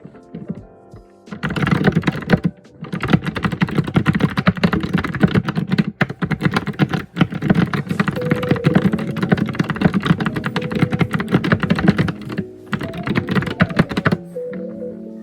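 Fast, continuous typing on a computer keyboard: a dense run of key clicks with a few brief pauses. It starts about a second in and stops about a second before the end. Soft background music with sustained tones plays underneath.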